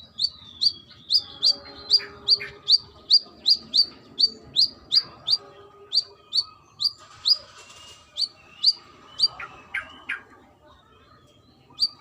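Brown-throated sunbird (kolibri kelapa) calling: a fast series of sharp, high chirps, about two a second, with a few lower notes mixed in about ten seconds in and a short pause near the end.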